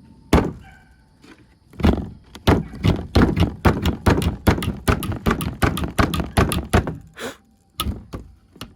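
Quick run of blows on wood, about five a second, after a single knock near the start: a small protruding piece of the wooden coop being knocked and shaved off.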